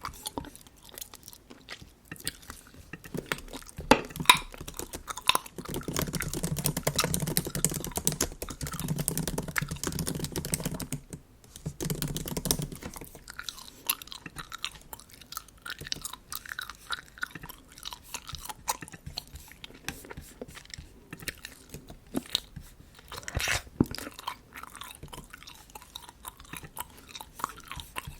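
Close-miked bubble gum chewing: wet smacking and clicking, irregular and continuous. For several seconds in the first half a louder, lower rumble sits under it.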